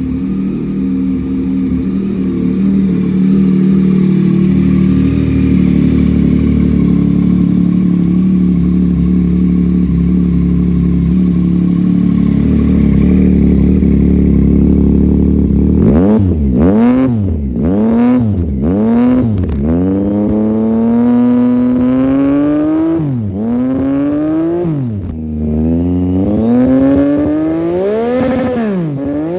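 Yamaha MT-09 SP three-cylinder engine running loud through an Austin Racing exhaust with an airbox-delete filter. It idles steadily, then from about halfway is revved in a series of throttle blips, each note rising and falling, with one rev held higher for a few seconds.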